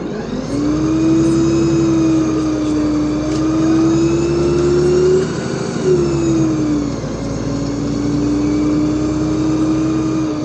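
LiAZ 5292.65 city bus heard from inside the cabin, its drivetrain whine rising slowly as the bus gathers speed, then breaking off and dropping in pitch about five and a half seconds in as the gearbox shifts up, before settling into a steady run over a low road rumble.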